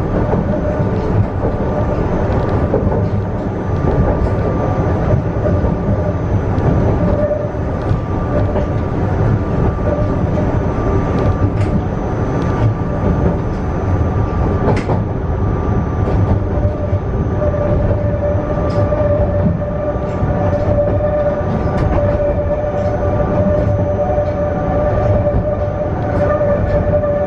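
Yokkaichi Asunarou Railway narrow-gauge electric train heard from inside the front car while running: a steady rumble of wheels on the rails with scattered sharp clicks over rail joints. A steady whining tone grows louder about two-thirds of the way through.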